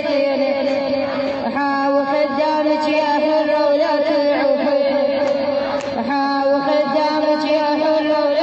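A woman chanting a religious lament in long held, slightly wavering notes, with short breaks about a second and a half in and again near six seconds.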